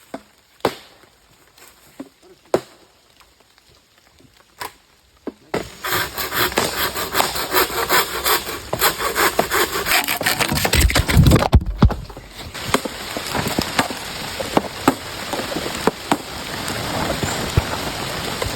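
A few sharp wooden knocks, like blows of a blade chopping wood. About five seconds in, a loud dense patter of heavy rain on leaves and the shelter starts and keeps going, with a brief deep rumble near the middle.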